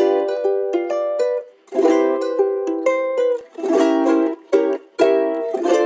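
Background music played on a strummed ukulele: bright plucked chords in short phrases with brief gaps between them.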